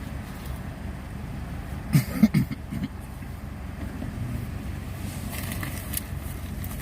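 Car engine running steadily, a low rumble heard from inside the cabin, with a few short louder sounds about two seconds in.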